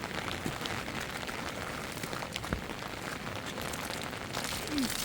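Heavy rain falling: a steady hiss of rain with many separate drop hits spattering through it.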